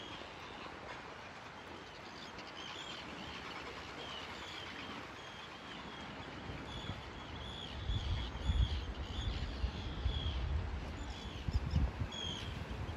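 Small birds chirping again and again in short calls over a steady outdoor wash of noise. From about eight seconds in, gusts of wind buffet the microphone in loud, irregular low rumbles.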